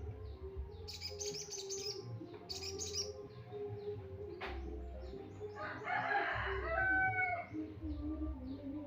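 Sogon bird calls played as a lure recording: two short, high, harsh chattering bursts, then a louder rasping rattle about six seconds in that ends in a few clear whistled notes, with small high chirps throughout.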